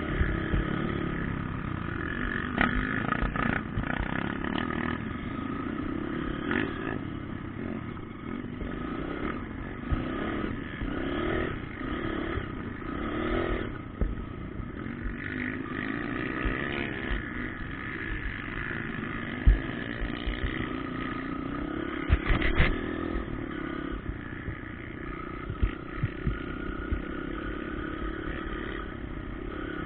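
Motocross motorcycle engines running on a dirt track, revving up and down, with a few sharp knocks and clatters.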